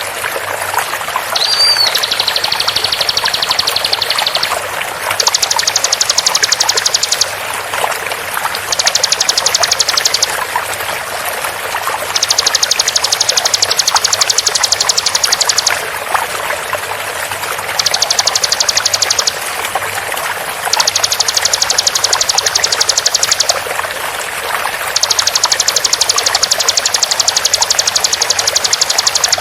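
Bar-winged prinia (ciblek) giving its rapid machine-gun trill in six high-pitched bursts of one to four seconds each, over a steady rush of flowing water; a brief whistle comes about a second and a half in.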